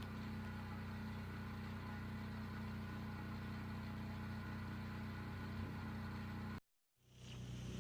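Vehicle engine idling steadily, a low even hum, cut off suddenly near the end and then coming back.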